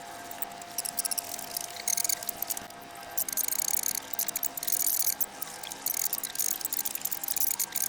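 Baby budgies pecking and chattering at their food, sped up about 28 times, so that it comes out as rapid clusters of high, ratchet-like clicking in bursts.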